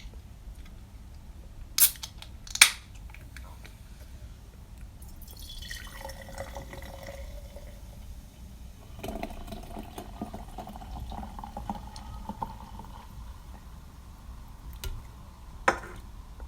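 Drink being poured into a glass, the pitch of the pour rising steadily as the glass fills. Two sharp clicks come about two seconds in, and another near the end.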